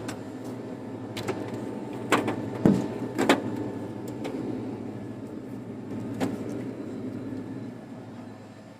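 Steady hum inside a car with its engine running, broken by a few sharp clicks and knocks about two to three seconds in and once more near six seconds.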